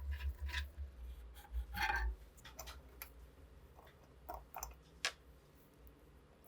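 Scattered small clicks and taps from parts being handled on a workbench, a short cluster of knocks about two seconds in, then only a few faint ticks.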